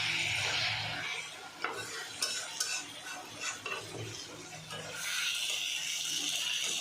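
Cooking in a pan: a utensil clinks and scrapes against the pan, with a steady sizzle at the start and again from about five seconds in.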